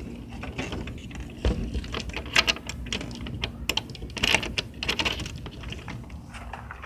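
A run of irregular sharp clicks and crunches, densest and loudest in the middle, over a low rumble.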